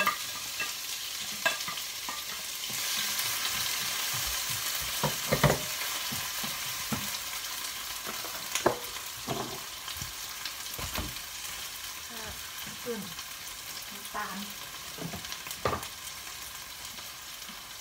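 Blended chilli and garlic sizzling in hot oil in a wok, stirred with a spatula that knocks and scrapes against the pan now and then. The sizzle grows louder about three seconds in.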